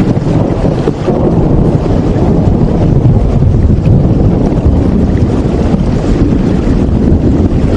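Steady rain as a continuous dense rushing noise, heaviest in the low end, with faint drop ticks above it.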